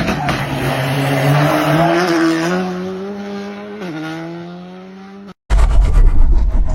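Rally car engine accelerating hard, its pitch climbing steadily with one gear change near the end, then fading as the car moves away. It cuts off abruptly and a loud low rumble follows.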